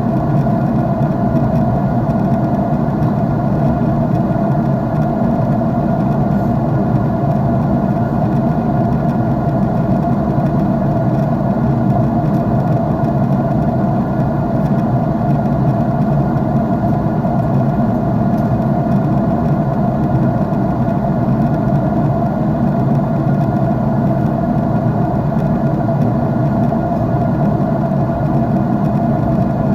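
Airliner cabin in flight: the jet engines' steady drone and the rush of air past the fuselage, even and unchanging, with a faint steady hum on top.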